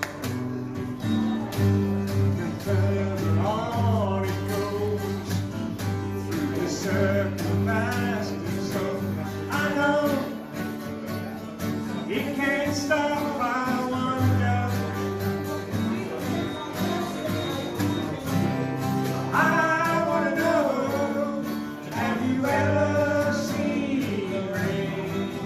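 Singing with guitar accompaniment over a steady bass line: a country-rock song performed without pause.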